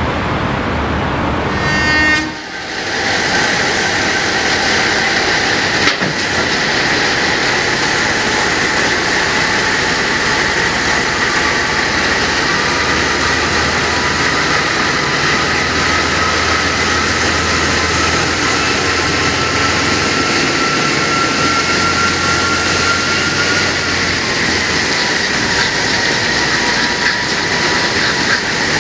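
Diesel-hauled passenger train running along the track: a steady rush of wheel and running noise with thin high whines. After a sudden break about two seconds in, one whine rises slowly in pitch through the middle and fades near the end.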